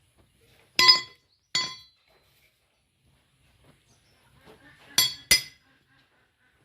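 Four sharp metal-on-steel strikes that ring: two about a second in, a second apart, then two more in quick succession near the end.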